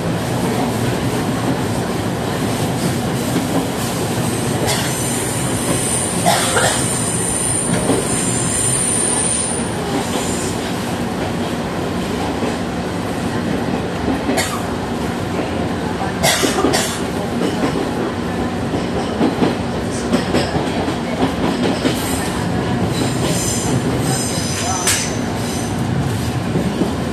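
Izu-Hakone Railway Sunzu Line electric train running along the track, heard from inside the front of the car: a steady rolling noise of wheels on rails. A high wheel squeal rings out for a few seconds, about five to nine seconds in, and sharp clacks come over rail joints and points several times in the second half.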